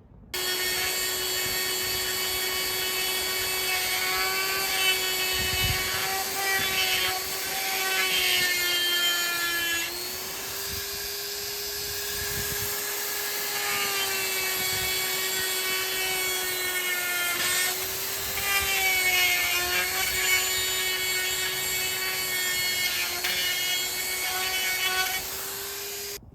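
High-speed die grinder deburring casting flash off a cast-iron big-block Chevy engine block: a steady high whine whose pitch sags each time the bit bears into the metal, with rough grinding in between. It starts just after the beginning and cuts off just before the end.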